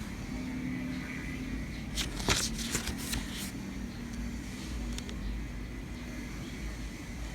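Packaging being handled: a quick run of clicks and rustles about two seconds in and one more click a little later, over a steady low rumble and faint hum.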